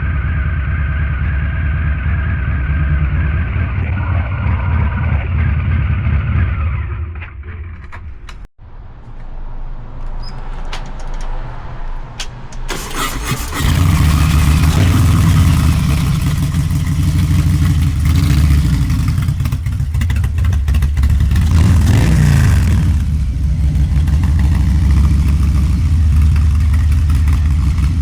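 Harley-Davidson Low Rider's 129 cubic inch V-twin with a Two Brothers Racing exhaust, heard on the move. It runs steadily, then drops away about seven seconds in with a momentary gap. From about thirteen seconds it comes back much louder with rushing noise over it, and the pitch rises briefly a few seconds before the end.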